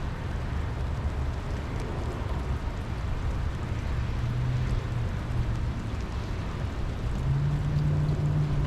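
Steady rumbling wash of rain and wind noise, with a low steady hum that rises out of it about four seconds in and again for the last couple of seconds.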